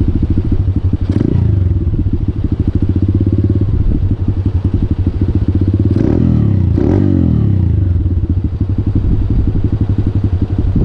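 Motorcycle engine running under way, a dense, steady pulsing, with three sharp clicks or knocks: one about a second in and two close together past the middle.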